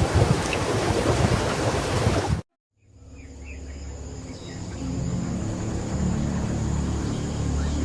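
Loud rushing water, a waterfall's steady roar, that cuts off abruptly about two and a half seconds in. After a brief silence, insects drone with a steady high whine over a low hum.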